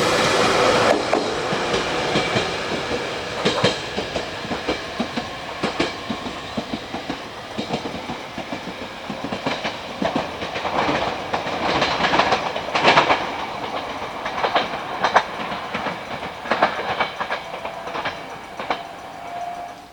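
Train running on the track past the station, its wheels clattering over the rail joints in irregular clicks, then fading away near the end.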